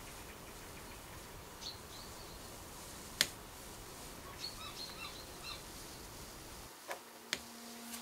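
Short, high bird chirps over a steady outdoor background hiss, with a sharp click about three seconds in. Near the end the background hiss drops away and a steady low tone begins.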